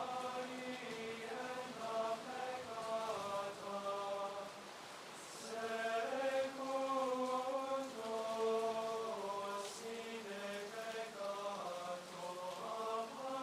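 Latin plainchant sung in unison, a slow melody of held notes with a short breath pause about four and a half seconds in before the singing resumes.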